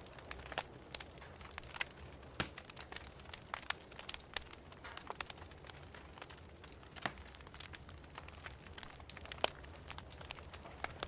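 Wood fire in a fireplace crackling: irregular sharp pops and snaps, a few louder ones standing out, over a low steady background.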